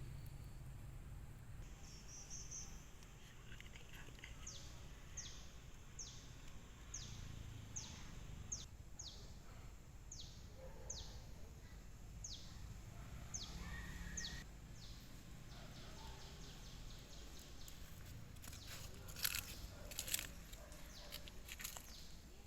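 A bird calling: a run of short, high notes, each sliding downward, repeated about every two-thirds of a second for some ten seconds, over a faint low outdoor rumble. A few sharp clicks near the end.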